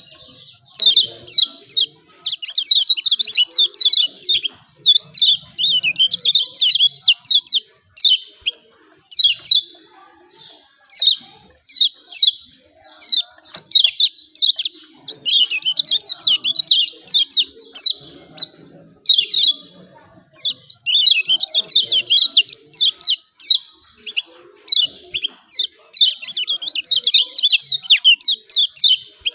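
Kecial kuning (Lombok yellow white-eye) giving its rapid, chattering 'ciak ciak' calls: high-pitched runs of fast chirps, half a second to two seconds long, repeated almost without pause.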